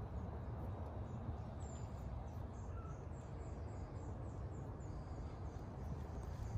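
Steady low outdoor background rumble, with a small bird giving a quick series of short, high chirps, several a second, from about one and a half to four and a half seconds in.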